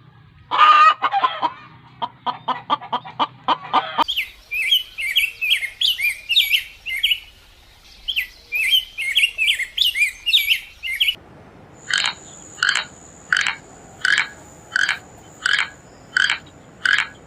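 A string of bird calls: chickens calling and clucking rapidly, then a few seconds of dense high-pitched chirping from small birds or chicks. After that comes a regular series of short calls, about one every 0.7 s, over a steady high whine.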